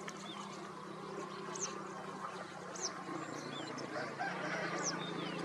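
Birds calling: scattered short, high, sharply slurred whistles and chirps over a steady low drone and a general outdoor hubbub.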